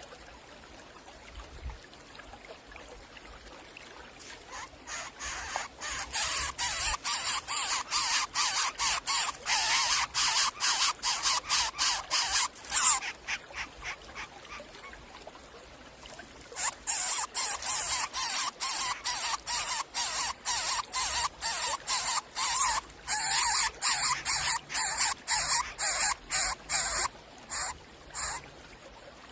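Young predators giving rapid, repeated hiss-like begging calls, about three a second, in two long runs with a pause of a few seconds between them.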